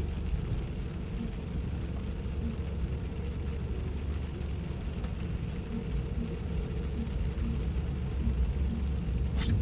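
Road noise heard inside a car with the windows up, driving on rain-wet pavement: a steady low rumble of tyres and engine, with a brief hiss near the end.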